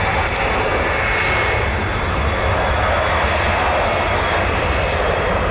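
Jet airliner engines running loudly and steadily, a dense rush with a thin high whine over it.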